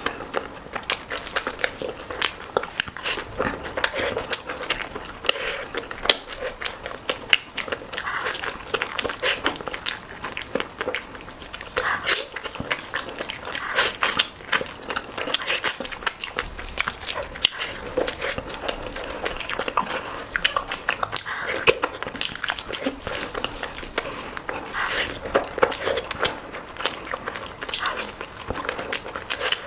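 Close-miked eating sounds: a person chewing and smacking with many quick, irregular wet clicks.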